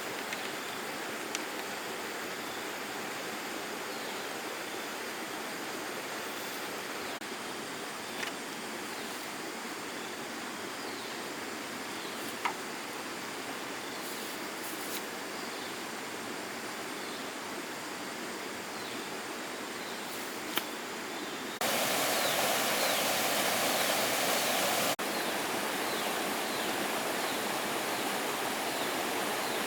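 Steady rush of flowing water with a few faint clicks. About two-thirds of the way through it suddenly gets louder for about three seconds, then settles a little lower.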